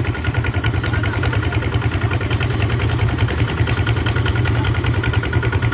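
Tractor engine running steadily with a fast, even chugging beat.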